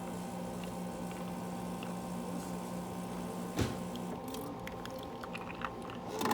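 Indoor room tone: a steady low electrical hum, with a single sharp knock about three and a half seconds in and a few faint ticks after it.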